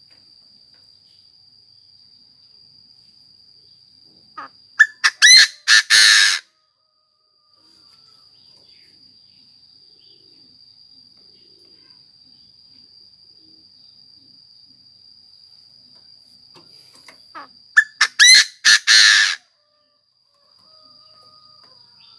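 Decoy Chinese francolin calling twice, about thirteen seconds apart. Each call is a quick run of harsh notes lasting about two seconds, growing louder toward the end. A thin, steady, high-pitched whine runs underneath.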